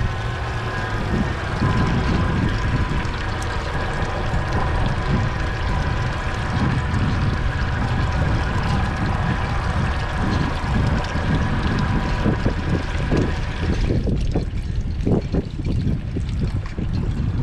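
Yamaha 24 Siesta's engine running with water splashing and gurgling. A steady whine over it cuts off about fourteen seconds in, leaving the engine and water.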